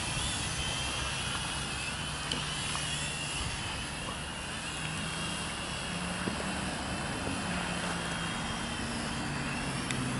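R/C quadcopter drone's propellers whining, the pitch wavering and stepping as the motors speed up and slow down. Gusty wind rumbles on the microphone underneath.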